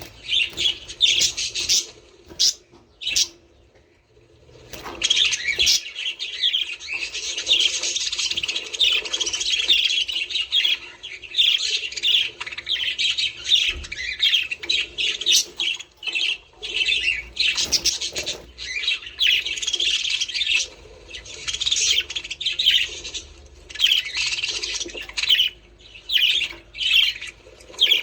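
A flock of budgerigars chattering and warbling, with rapid overlapping chirps and squawks and a brief lull a few seconds in.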